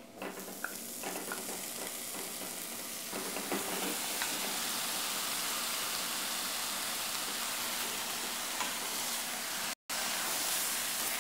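Raw chicken pieces sizzling as they go into a pot of hot oil and fried onion-spice masala, stirred in with a wooden spatula that gives a few light knocks. The sizzle builds over the first few seconds, then holds steady, and cuts out for a moment near the end.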